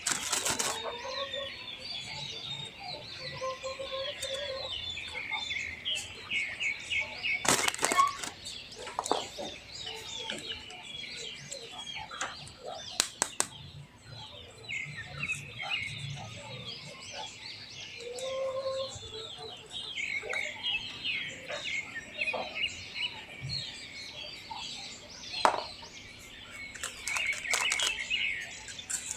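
Many small birds chirping continuously, with occasional sharp clicks and knocks.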